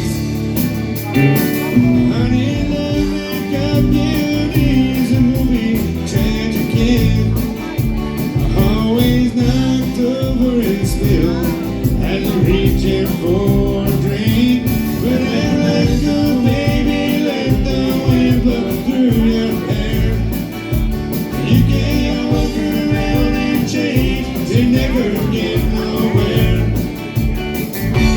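A live country band playing a song: a singer's voice carrying the melody over guitar and a steady beat.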